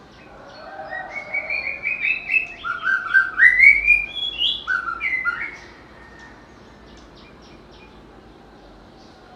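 White-rumped shama singing one varied, whistled song phrase lasting about five seconds. It opens with a quick run of repeated notes, then drops to lower upswept notes and ends with a few higher ones before stopping.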